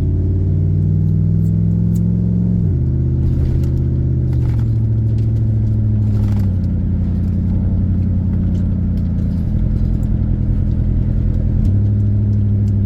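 Car engine accelerating as the car pulls away. Its pitch climbs and then drops at each gear change, three times in the first seven seconds. It then runs steady and steps up again near the end.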